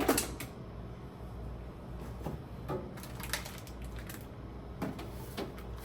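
Scattered light knocks and clicks of food containers and packages being handled and moved about in a refrigerator, over a steady low hum.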